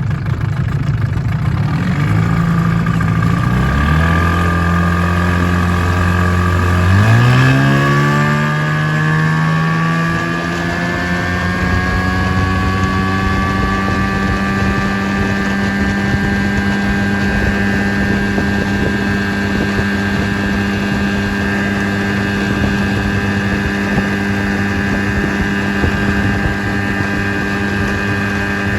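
1984 Evinrude 8 hp two-cylinder two-stroke outboard running: it drops to a low, steady speed a few seconds in, then is opened up about seven seconds in, its pitch climbing for several seconds before it holds steady at cruising speed.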